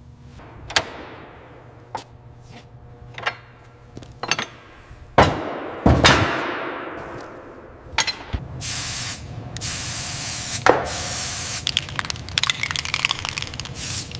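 A series of sharp metal knocks and clanks, each ringing briefly as it fades, a second or so apart. From about eight seconds in come repeated hissing spray bursts mixed with small clicks and rattles, likely debris being cleared from the corroded airframe.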